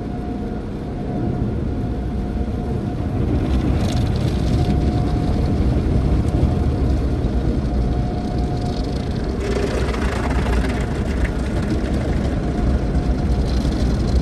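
Automated tunnel car wash heard from inside the car: a steady low machinery rumble with a faint even hum. Bursts of hissing wash against the car's body come about four seconds in and again from about nine and a half to eleven seconds.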